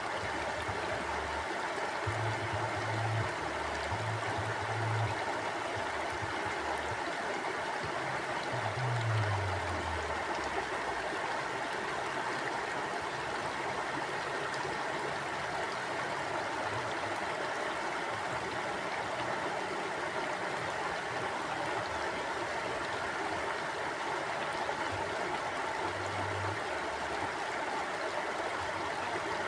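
River water flowing steadily, an even rushing noise. Underneath it come a few brief low rumbles, the loudest about nine seconds in.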